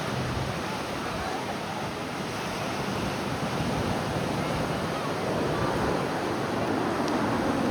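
Ocean surf breaking on the beach, with wind on the microphone: a steady rushing noise that grows slightly louder toward the end.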